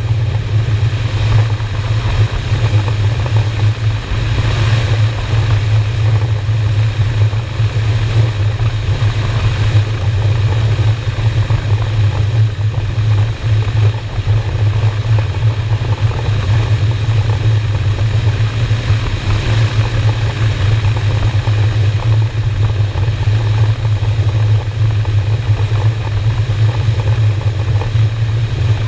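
Cruiser motorcycle's V-twin engine running steadily at cruising speed, a constant low drone with a haze of wind and road noise over it.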